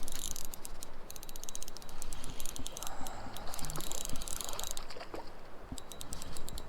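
Spinning reel clicking rapidly in spells as a hooked brown trout is reeled in, over the steady rush of the river.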